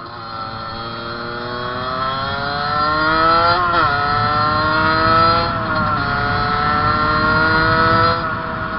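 Fantic 50 two-stroke motorcycle engine at full throttle, revs climbing steadily in each gear with three upshifts where the pitch drops sharply before rising again.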